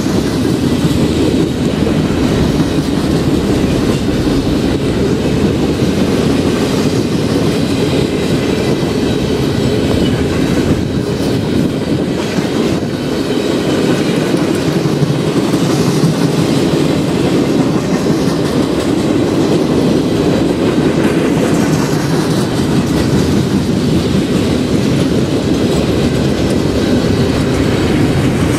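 Freight train of flatcars loaded with wind turbine blades rolling past close by: a steady rumble of steel wheels running on the rails.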